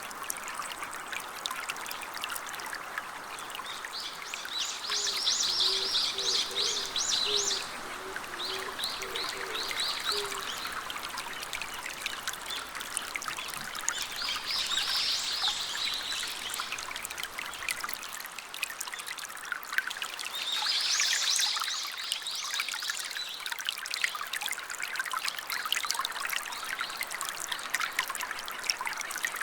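Steady patter of rain and running water, with songbirds singing short trilled phrases four times over it.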